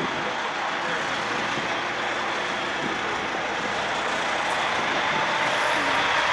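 Diesel semi truck engine running steadily, growing a little louder near the end.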